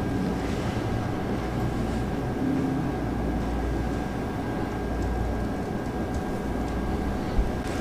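Steady low rumble and hiss with a faint steady high tone, and a single short knock near the end.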